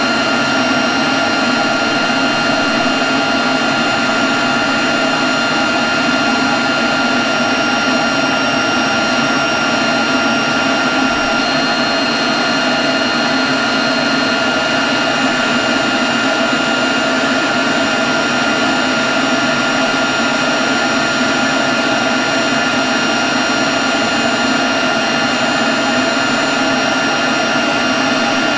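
Leaf blower running steadily at constant speed: a loud, even rush of air with a steady high whine over it.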